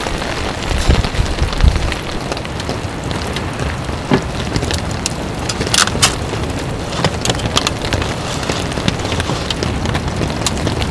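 Steady rain falling, with scattered louder drop taps standing out from the patter. Some low thuds and rumble come in the first two seconds.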